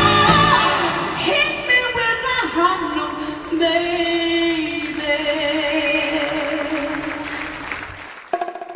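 Music with singing: the voices glide and then hold one long note, which breaks off abruptly about eight seconds in.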